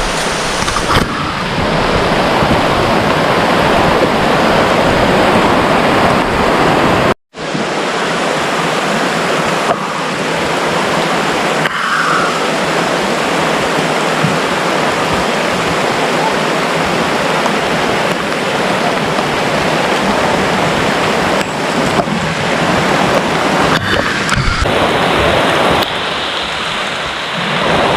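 Heavy rain falling, a steady loud hiss. It cuts out for an instant about seven seconds in.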